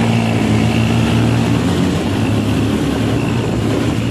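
ATV engine running under throttle with a steady hum that turns rougher and noisier about two seconds in.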